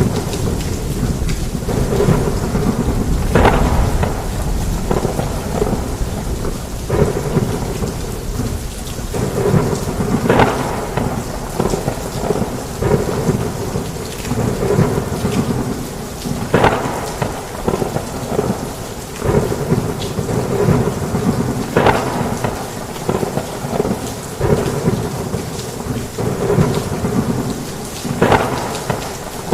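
Heavy rain falling on a roof with low, continuous thunder rumbling underneath. Sharper cracks come roughly every six seconds.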